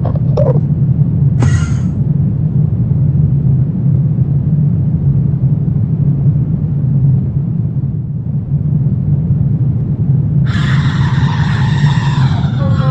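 Dark ambient drone of a horror soundscape: a steady low rumble, with a brief hiss about a second and a half in. About ten seconds in, a harsh, high, layered sound comes in over the drone, with falling pitches near the end.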